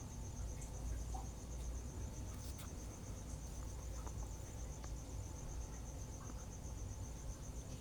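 Crickets chirping in a steady, rapidly pulsing high trill, over a faint low background rumble.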